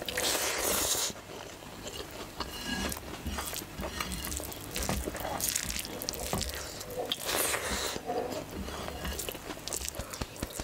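Close-miked wet chewing and smacking of a mouthful of curry-soaked rice eaten by hand, louder in the first second as a handful goes into the mouth, with soft squelches of fingers gathering rice on the plate.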